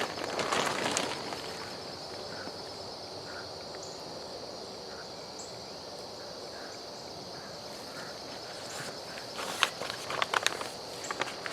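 Steady high-pitched insect trill in outdoor ambience. Rustling soil and handling of the potted tree come in the first second, and a few sharp knocks and rustles follow near the end.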